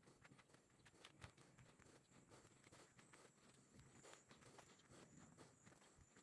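Faint footsteps of a person walking outdoors: a steady scatter of small clicks and scuffs, with a thin steady high tone behind them.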